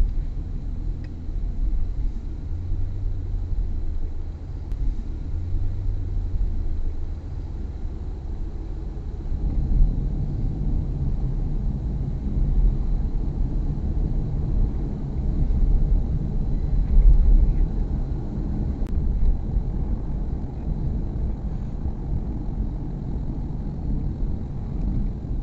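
Car driving, with a steady low road and engine rumble and a faint, steady high-pitched tone over it.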